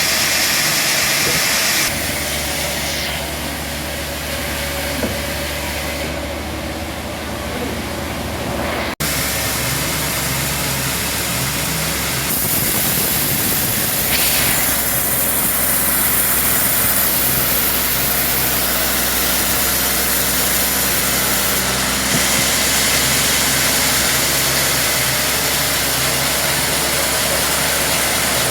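Band sawmill running steadily, a machine hum with hiss over it; the sound shifts abruptly several times, with a brief drop about nine seconds in.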